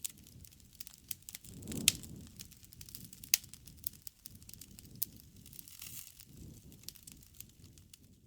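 Wood fire burning: irregular crackling with sharp pops over a low rumble of flames, the loudest pop a little under two seconds in.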